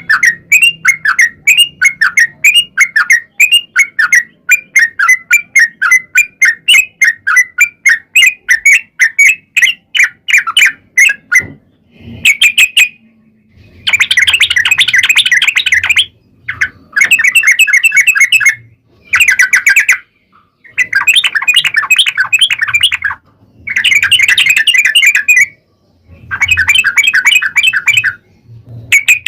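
Yellow-vented bulbul (trucukan) song. For the first eleven seconds it repeats quick notes about three or four times a second. After that it sings six dense, chattering phrases of about two seconds each, with short pauses between them.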